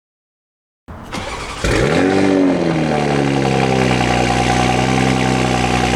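Car engine starting after a moment of silence: it catches about a second and a half in with a rev that rises and falls, then settles into a steady idle.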